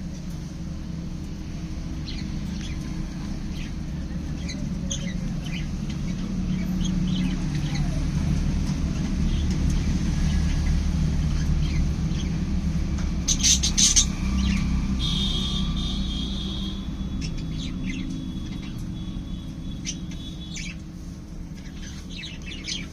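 Small pet parrots chirping and squawking in short calls, with a loud burst of calls about halfway through followed by one longer held call, over a steady low rumble.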